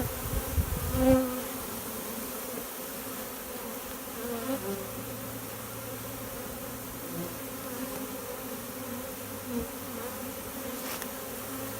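Honeybee swarm buzzing steadily as the bees march into a hive box. A low rumble on the microphone in the first second.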